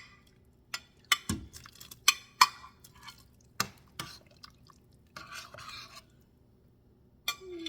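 A spoon clinking and knocking against a soup pot and dish about seven times as chicken is added to the soup, with one duller thump about a second in. A short scrape of stirring follows about five seconds in.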